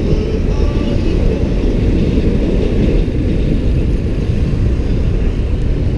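A motorbike riding through city traffic: steady, heavy rushing noise of wind and engine, loudest in the low end, with no pauses.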